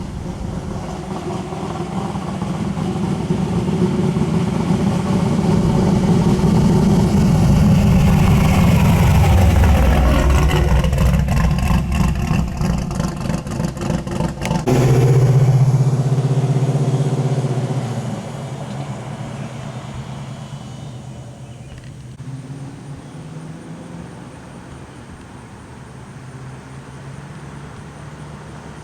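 Chevy Nova pro mod's engine running loud and building over several seconds. About halfway through it settles into a steady low drone, then fades away over the last ten seconds.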